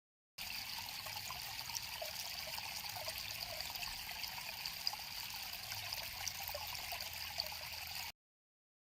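River water flowing, a steady trickling with small irregular splashes. It cuts in just after the start and stops suddenly near the end.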